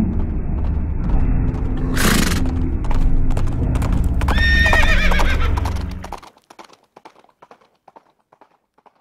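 A horse whinnies with clip-clopping hoofbeats over a low rumble. There is a short loud burst about two seconds in. The rumble cuts off about six seconds in, leaving the hoofbeats fading away.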